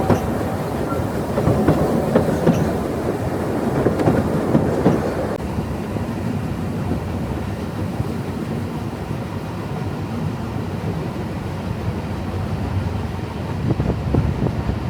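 Isle of Man Steam Railway train running, its carriage wheels clicking and rumbling over the track. The sound is louder for the first five seconds, then settles to a quieter, steadier rumble.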